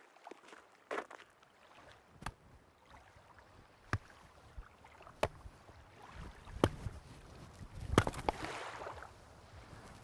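Sea water washing on a beach, swelling toward the end, with scattered sharp clicks and knocks.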